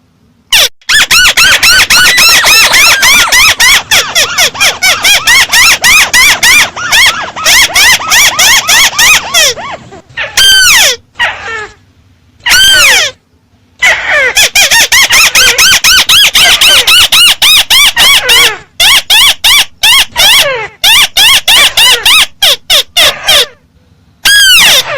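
Loud, rapid chattering calls of the bird known in Vietnamese as chim mắt xéo. They come as long runs of quick squealing notes that arch up and down in pitch. The runs break off briefly about ten, thirteen and nineteen seconds in, and again near the end.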